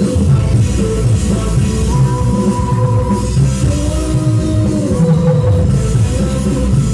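Loud music with a heavy bass and drum beat, played through a mini sound system.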